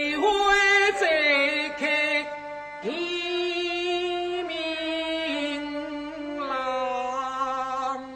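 Teochew opera singing: a voice draws out a wordless vowel over a few long held notes, scooping up into them with a slight waver.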